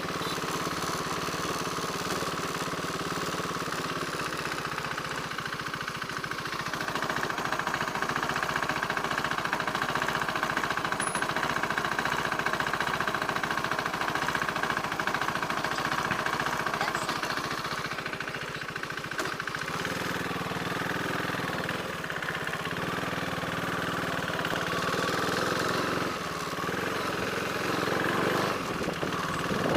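Motorcycle engine running at a steady low speed, its note shifting and growing fuller about twenty seconds in.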